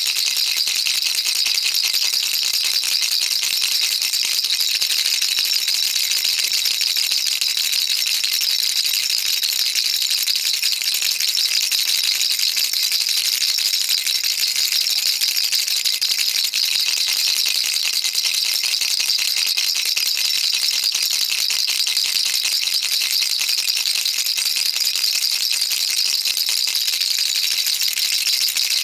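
Baby rattle shaken continuously, its beads clattering in a dense, fast, high-pitched stream without a break.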